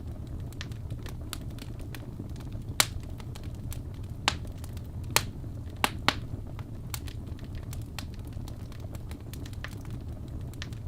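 Fire in a fireplace crackling, with a steady run of small sharp cracks over a low rumble of the flames, and a handful of louder pops a few seconds in.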